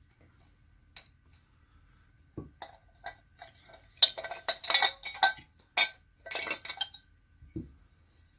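Metal parts of an Esbit stove coffee maker clinking and rattling as they are handled and taken apart, with a dense run of clinks in the middle and a dull knock near the start and another near the end.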